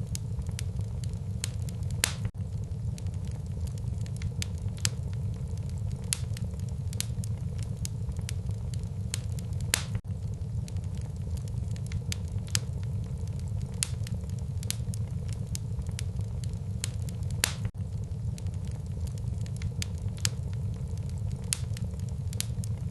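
Wood fire burning in a fireplace: a steady low rumble of flames under frequent sharp crackles and pops, with three louder pops about two seconds in, near ten seconds and around seventeen seconds.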